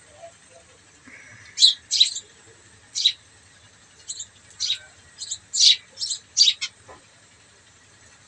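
Small birds chirping: a run of about a dozen short, high chirps over five seconds, over a faint low hum.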